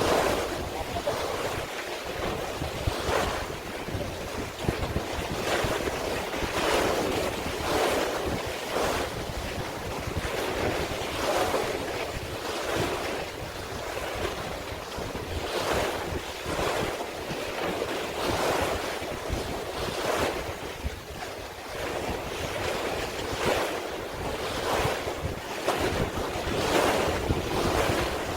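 Sea water splashing in repeated swells every second or two, with wind buffeting the microphone.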